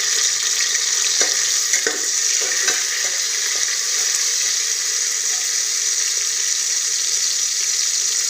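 Chopped tomato frying in hot oil with sliced onions and green chillies in a pressure cooker, a steady sizzle, with a metal spatula scraping against the pan a few times in the first three seconds as it is stirred.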